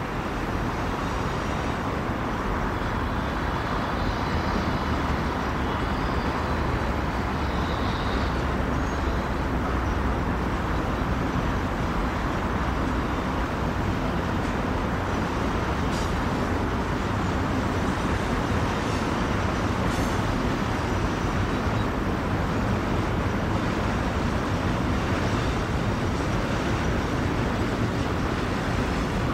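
Intermodal freight train rolling past over a railway bridge, its wagons giving a steady rumble of wheels on rail, with two faint clicks about two-thirds of the way through.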